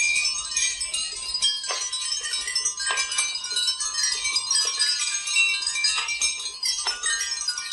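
Many glass marbles clattering together, giving a dense, continuous shower of bright clinks and ringing, with a few sharper knocks about two, three, six and seven seconds in.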